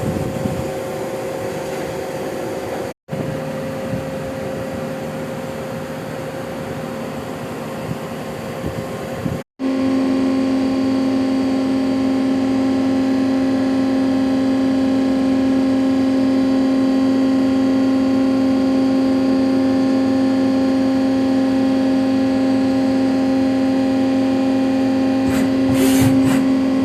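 CNC lathe running: a steady machine hum with several whining tones over a noisy background, broken off briefly twice. After the second break a stronger low whine holds steady. A few short clicks come near the end.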